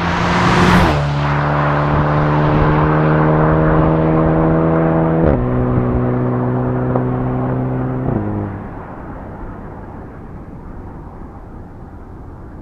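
Volkswagen Golf Mk7 GTI's turbocharged four-cylinder passing close by, loudest about a second in, then holding a steady exhaust note as it drives away and fades. The note drops a step lower twice, about halfway through and again a few seconds later.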